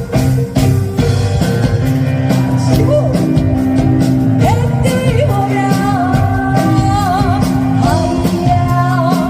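Fusion gugak band playing live with a rock-style drum kit and bass, a singer's voice with strong vibrato coming in about halfway through.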